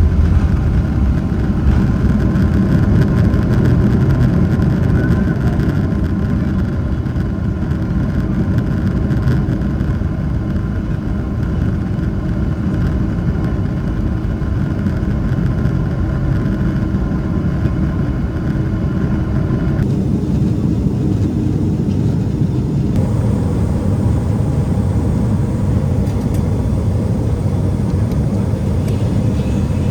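Boeing 777-300ER's GE90 jet engines heard from inside the cabin: a loud, steady rumble with a faint high whine. The sound changes abruptly twice in the second half.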